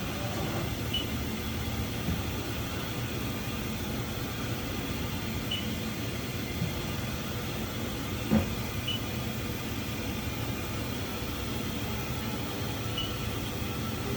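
Steady mechanical hum of a Haas VF-2SS CNC vertical machining center powered up and running. One short knock comes about eight seconds in, and faint short high chirps recur about every four seconds.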